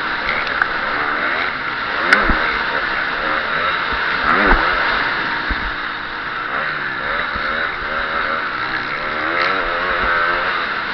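KTM 350 SX-F single-cylinder four-stroke motocross engine revving up and down under throttle through the race, over a steady rushing noise. A sharp knock comes about two seconds in.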